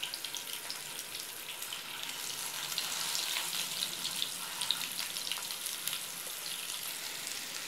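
Marinated tiger prawns sizzling in hot coconut oil in a nonstick frying pan as they are laid in one by one: a steady sizzle with many small pops.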